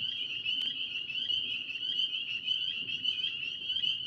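A chorus of tree frogs calling: many overlapping, rapidly pulsed calls merging into a steady high-pitched trill.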